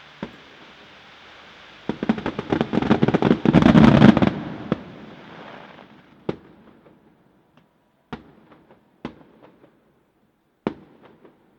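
Fireworks display: a rapid barrage of bangs and crackles that builds for about two seconds, then single bangs spaced a second or two apart.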